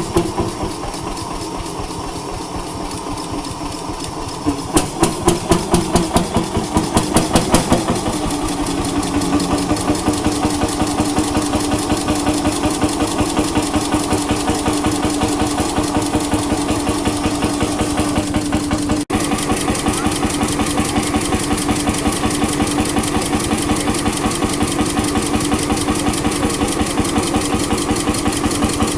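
Old stationary engine running with a fast, even beat. Between about four and eight seconds in, a run of louder strokes comes roughly twice a second, and then it settles into a steady rhythm.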